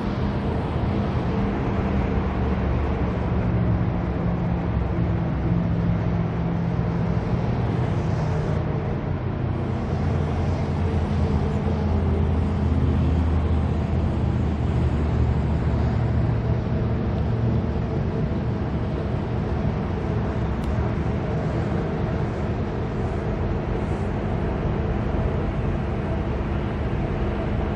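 Street traffic: steady engine and tyre noise from passing vehicles, with a deeper engine drone swelling from about ten seconds in and fading by about eighteen.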